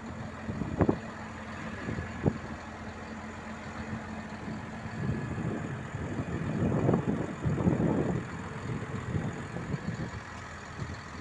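Motor vehicle engine running, with a few sharp knocks in the first couple of seconds and a louder stretch from about five to nine seconds in.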